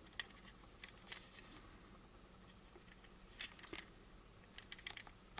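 Near silence with a few faint light clicks and ticks: small plastic model-kit parts being handled, in clusters near the middle and end.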